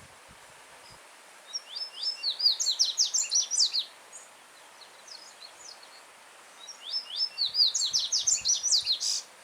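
Yellow-bellied seedeater (coleiro-baiano) singing two loud phrases, each a fast run of sharp sweeping notes, with a few soft notes in the pause between them. A stream runs steadily underneath.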